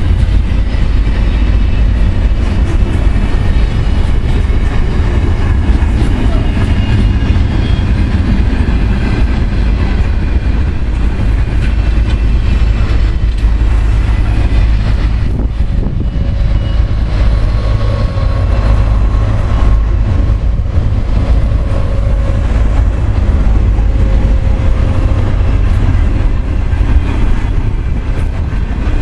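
Container wagons of a long freight train rolling past close by: steel wheels running on the rails in a steady, loud rumble.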